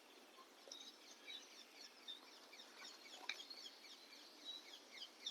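Faint chirping of small birds: many short, quick high chirps.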